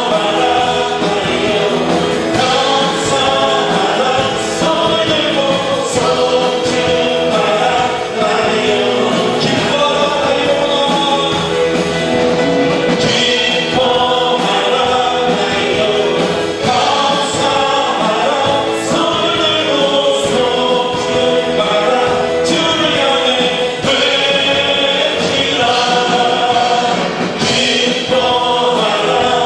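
A group of voices singing a Christian worship song, with musical accompaniment.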